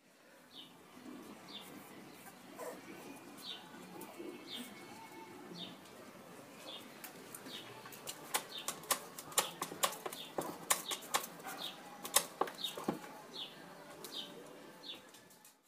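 Faint chirping of a small bird, one short high chirp about once a second. Over it come quick sharp clicks and taps, densest from about halfway to near the end, fitting a bulldog puppy's claws scrabbling on paving and a doorstep.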